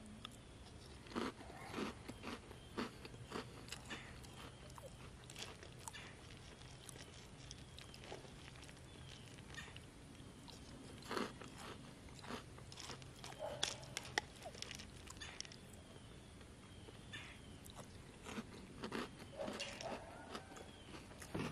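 A person chewing and crunching spoonfuls of chocolate cereal balls in milk, in irregular crunches that come in clusters, with quieter stretches between them.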